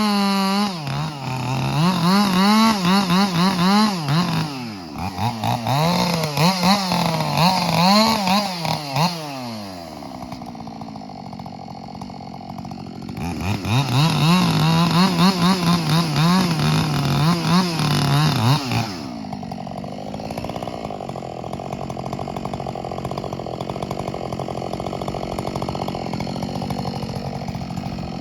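Ported Husqvarna 572 XP two-stroke chainsaw running at high revs, its pitch dipping and recovering over and over as it works in a cut. About ten seconds in it drops to a quieter, lower running speed for a few seconds, revs up and works again until about nineteen seconds in, and then settles to a steady, quieter idle.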